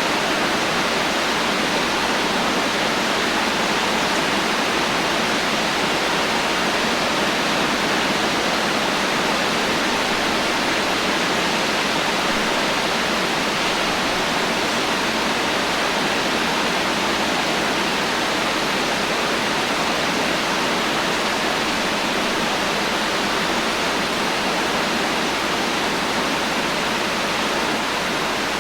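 Heavy rain falling steadily: a dense, even hiss with no thunder and no distinct drops or changes.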